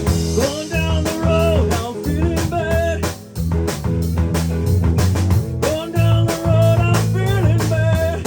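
Band playing an instrumental blues-rock passage: drum kit keeping a steady beat under bass and electric guitar, with a lead line of bent, sliding notes in two similar phrases.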